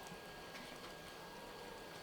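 Quiet background: a steady faint hiss with a thin, steady high-pitched hum and a few faint ticks, with no distinct event.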